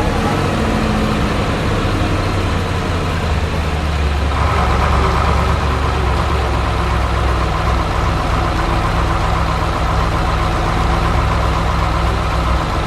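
Heavy truck engine running steadily with a deep rumble, a higher whine joining about four seconds in.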